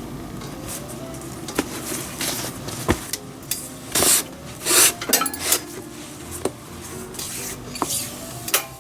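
Hands working a leather baseball glove during relacing: leather lace drawn through the lace holes in short rasping pulls, with metal tools clicking and clinking against a hard surface.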